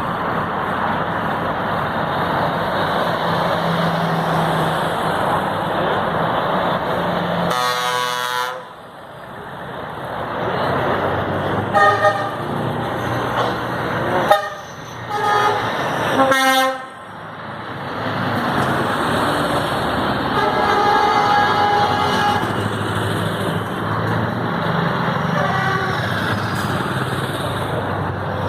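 A convoy of trucks driving past with engines running and steady road noise, the drivers sounding air horns several times: a long blast about eight seconds in, then shorter toots and blasts through the middle and near the end.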